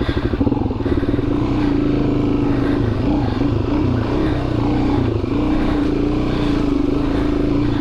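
Dual-sport motorcycle engine running on a dirt single track, its pitch rising and falling a little as the throttle is worked.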